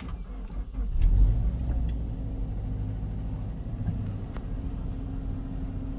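Subaru Exiga's EJ20 2.0-litre flat-four engine starting: a brief crank on the starter, catching about a second in with a short flare of revs, then settling into a steady idle.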